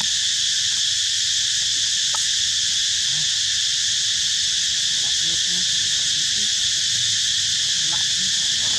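A steady, unbroken chorus of insects droning outdoors, loud and high-pitched, with a few faint soft clicks underneath.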